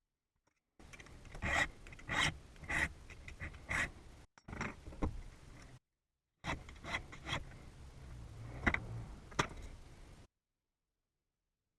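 Hand file rasping across a metal key blank in short repeated strokes, cutting a rough key by hand; the strokes come in runs with several abrupt breaks.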